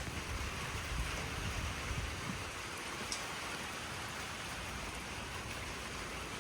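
Storm weather: a steady hiss of rain and wind, with low gusts of wind buffeting the microphone in the first two seconds or so.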